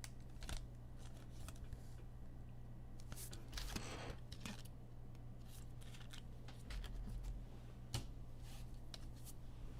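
Trading cards being handled and slid against one another: scattered soft clicks and rustles, with a longer rustle about three and a half seconds in. A steady low electrical hum runs underneath.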